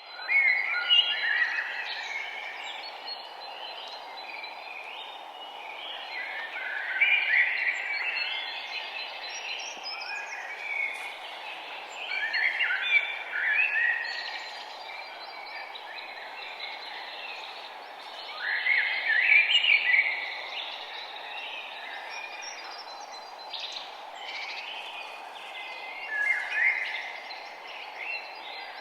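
Songbirds singing outdoors, with a loud warbled song phrase returning about every six seconds over quieter chirps. A steady, even hiss runs underneath.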